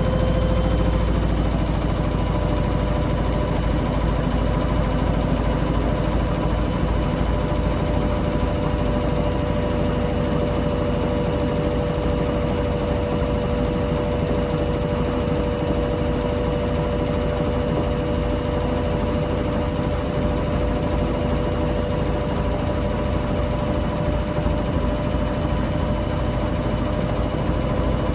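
Hoover New Wave Plus 5 WA1300 washing machine on its final spin: the drum spins fast with a deep rumble and a steady high motor whine. The pitch rises slightly at the very start, then holds level.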